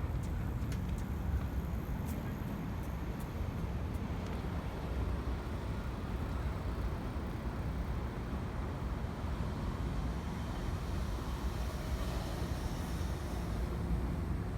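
Steady road traffic noise, a low rumble with tyre hiss, with a vehicle passing close about twelve seconds in.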